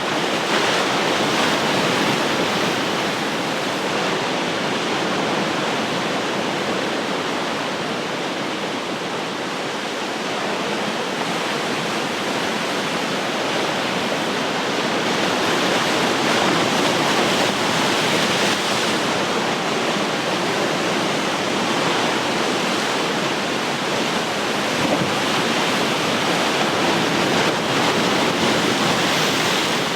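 Ocean surf: a continuous wash of breaking waves that swells and eases slowly without a break.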